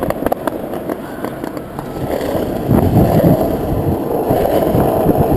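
Skateboard wheels rolling over city pavement, clicking over sidewalk joints, then a louder, rougher rumble from about halfway through.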